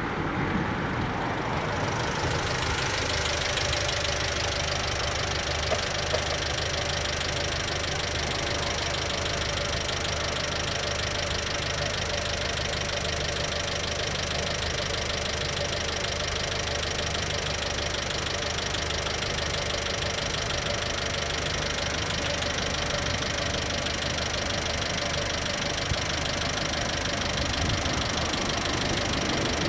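A motor vehicle's engine idling steadily, with a constant low hum.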